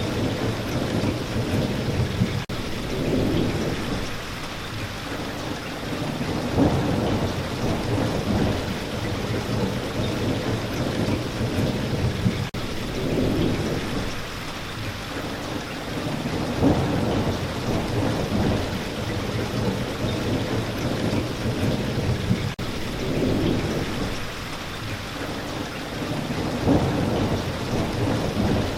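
Steady spring rain falling, with low rumbles swelling about every ten seconds.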